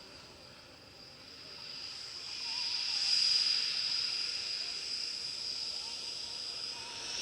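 Panavia Tornado IDS's twin RB199 turbofan engines whining with a steady high-pitched tone over a jet hiss, swelling louder about two seconds in as the jet comes closer.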